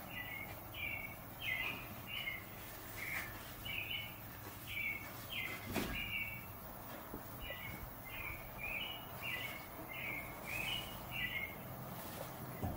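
A bird chirping: a long series of short, hooked notes, about two to three a second with short pauses, plus a faint knock about six seconds in.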